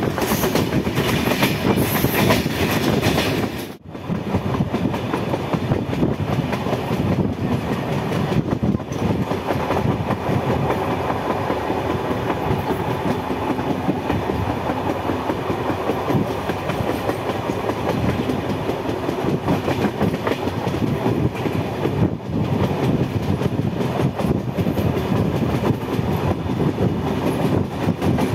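A train running at speed, heard from inside a coach at an open window: steady rumble and rattle of wheels on the rails, mixed with rushing air. The sound drops out sharply for a moment about four seconds in.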